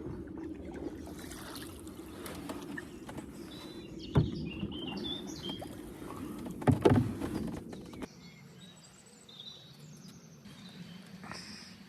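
Canoe paddling: water noise around the boat with two knocks, likely the paddle against the hull, about four and seven seconds in, and the water noise dropping away about eight seconds in. Small birds chirp now and then.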